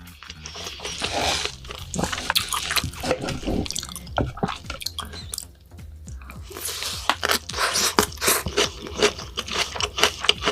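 Close-miked eating sounds: a person chewing and biting, with many short wet clicks of the mouth and a brief lull about halfway through.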